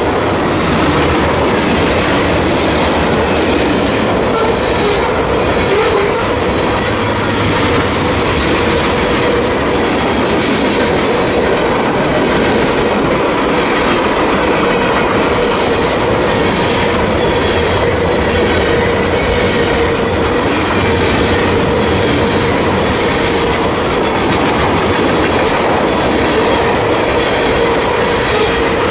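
Freight train of covered hoppers and tank cars rolling steadily past, loud and unbroken, wheels clattering over the rail joints with a steady ringing tone from the wheels.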